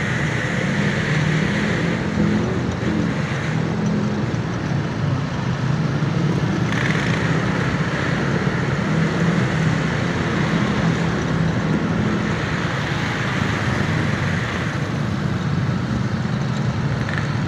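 Steady road noise of riding along on a motorbike in traffic: a low engine hum under a continuous rush of wind and tyres.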